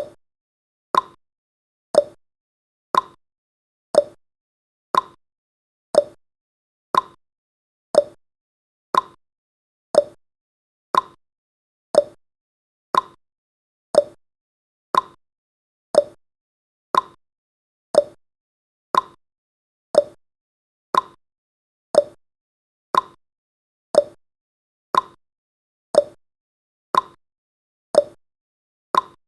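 Countdown timer's clock tick-tock sound effect: one short tick each second, alternating between a higher and a lower pitch.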